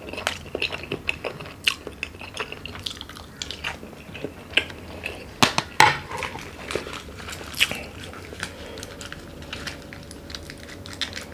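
Person chewing and biting seafood with wet mouth sounds, mixed with a spoon clinking and scraping in the dish. Two sharp clicks about five and a half seconds in are the loudest.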